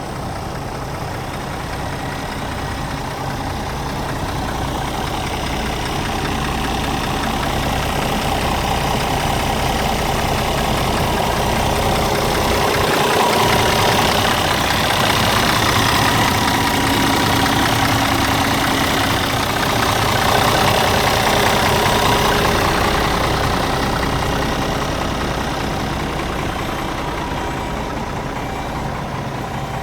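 Scania G410 tractor unit's 13-litre straight-six diesel idling steadily, growing louder through the middle and easing off again toward the end.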